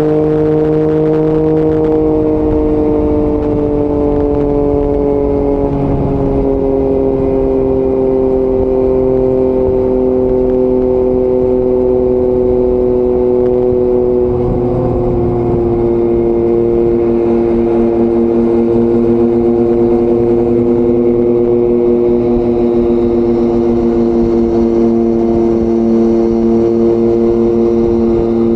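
Yamaha MT-09 three-cylinder engine with an Akrapovic exhaust running steadily on the move. Its pitch eases slowly lower over the first half and then holds level.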